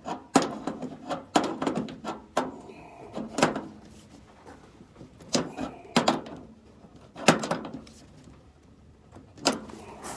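Irregular knocks and clatters of hard objects being handled, about a dozen spread unevenly over ten seconds, some with a short rattle after the hit.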